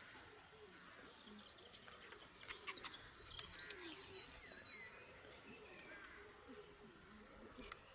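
Faint birds chirping and twittering over a soft background hiss, with a few sharp clicks about two and a half seconds in.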